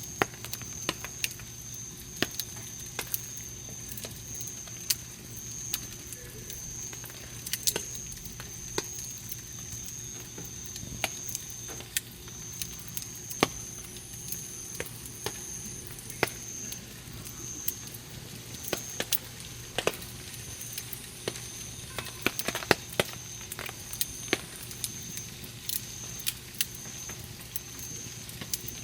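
Wood campfire burning, crackling with irregular sharp pops and snaps over a low hiss.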